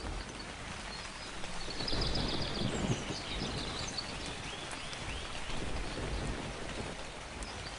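Steady rain with birds chirping, a run of short arching calls through the middle, and a low rumble of thunder swelling about two to three seconds in.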